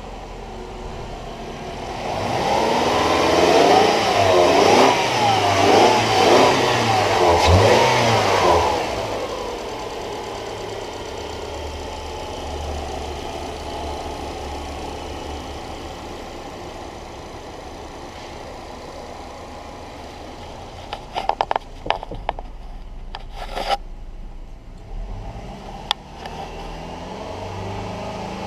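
2011 Subaru Legacy 2.5-litre flat-four engine revved up and down several times, then settling back to a steady idle. A few sharp clicks and knocks are heard over the idle near the end.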